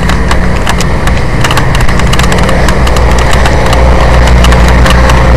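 A vehicle engine idling steadily with a low hum, overlaid with frequent sharp clicks and crackles.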